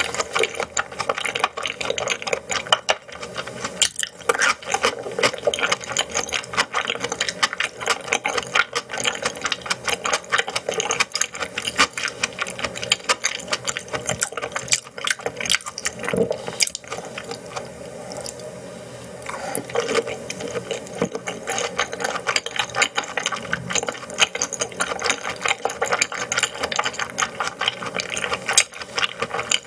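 Close-miked chewing of raw yellowtail sashimi: a dense run of quick wet clicks and mouth smacks, easing briefly a little past halfway.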